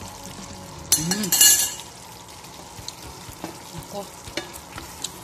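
Chicken sizzling in a wok of coconut milk that has cooked down nearly dry. A wooden spatula stirs, with a louder burst of sizzle about a second in and a few light knocks against the pan later on.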